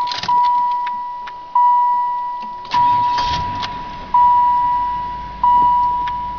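A 1995 Cadillac Fleetwood Brougham's warning chime sounds with the key in the ignition: a single steady ding repeats about every 1.3 seconds, each note fading out. A few clicks and a low rumble come in about three seconds in.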